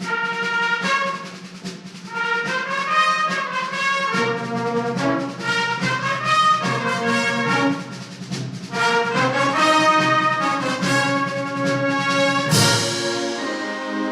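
Wind band playing, with brass carrying the melody over a steady low part, and a crash near the end that rings on.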